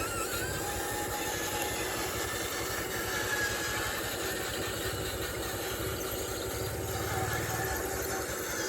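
Construction machinery running steadily: a low engine-like rumble with faint high whines over it, swelling slightly for a couple of seconds near the end.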